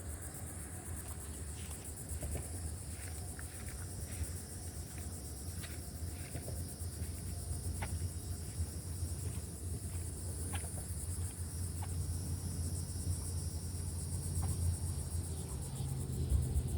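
Steady high-pitched insect chorus, a rapid pulsing buzz, over a low steady rumble, with a few faint short clicks scattered through it.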